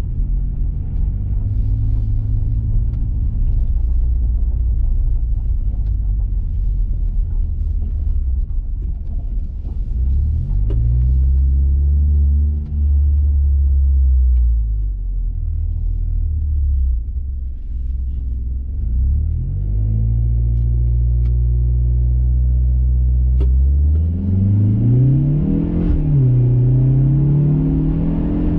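2021 Mazda 3 Turbo's turbocharged 2.5-litre four-cylinder engine running through a CorkSport 80 mm cat-back exhaust while driving. Its pitch holds steady, rises and falls a couple of times as it accelerates and eases off, then climbs hard near the end, dips briefly at a gear change and settles higher.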